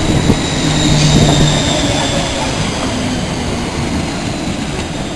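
Train moving at the station: a steady rumble of wheels on rail, with a low steady hum in the first second and a half and a thin high squeal that falls slightly in pitch.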